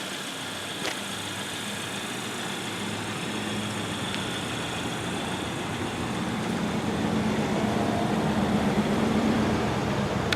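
A motor vehicle's engine running steadily with a low hum, growing louder over the second half, with a single short click about a second in.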